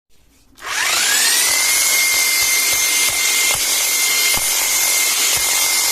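Hilti TE 76 ATC rotary hammer's electric motor switched on and running free with no load: its whine climbs for about a second as it spins up, then holds a steady high pitch.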